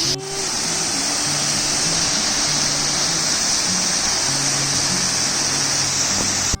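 Loud, steady rush of falling and flowing water, with background music's low notes playing faintly underneath.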